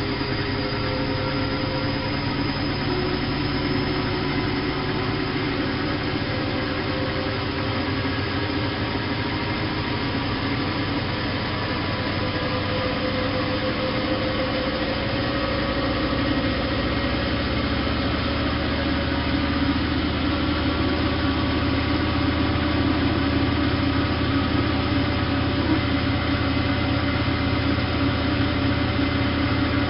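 Bosch WFK 2431 washing machine running: a steady motor and drum hum with several tones slowly rising in pitch as the motor speeds up, growing a little louder toward the end.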